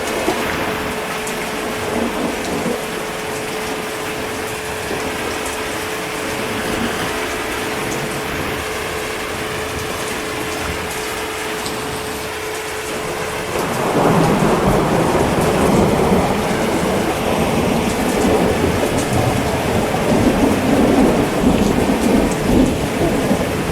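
Steady rain falling, with a rolling rumble of thunder that swells in about halfway through and keeps rumbling.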